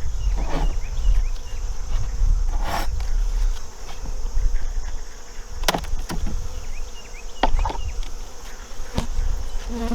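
Honey bees buzzing around an opened hive, stirred up and not happy at the disturbance. A few sharp knocks sound over the buzzing.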